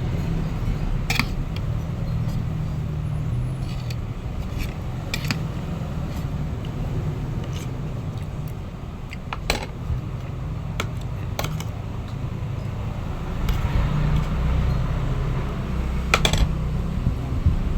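Spoon and fork clinking now and then against a plate during a meal, single sharp clicks a second or more apart, over a steady low rumble.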